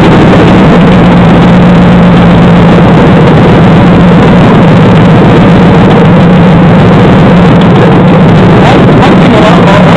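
GM 5.3L LH6 V8 running steadily with the passenger-side valve cover off and the valvetrain exposed, with a lifter tick. The tick comes from the number 4 AFM (displacement-on-demand) lifter, which is locked down, a common fault on these engines.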